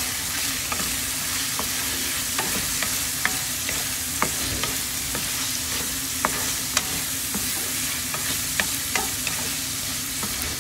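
Fatty chicken butts and ginger frying in a pan: a steady sizzle, with frequent sharp pops scattered through it.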